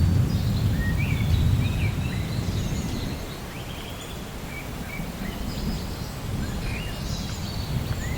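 Thunderstorm ambience: a low rumble of thunder fading away over the first few seconds under a steady hiss of rain, with birds chirping repeatedly over it.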